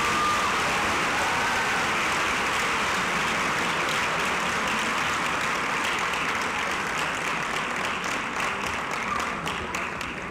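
Audience applauding, thinning out to scattered claps near the end.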